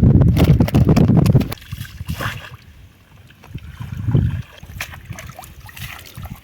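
Shallow river water sloshing and splashing as a hand push net is worked through it, loudest for the first second and a half, with another surge about four seconds in.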